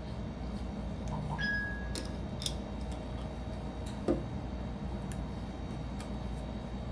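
Light clicks and taps of small plastic Lego pieces being handled and pressed together, with one louder knock about four seconds in, over a steady low hum.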